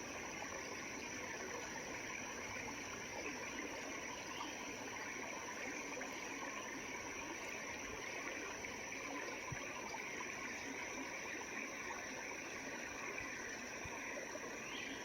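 Small creek water flowing and trickling with a steady, even rush.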